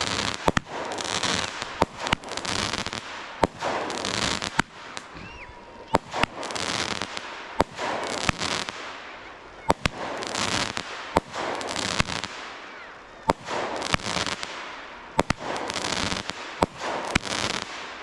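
Fireworks going off in steady succession: a sharp bang about once a second, each followed by a hissing burst lasting a second or two.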